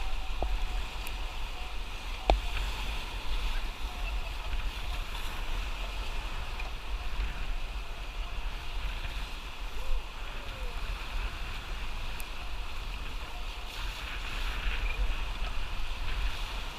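Rushing white-water rapids with steady wind buffeting the microphone, and a few sharp knocks, about two seconds in and again near ten seconds.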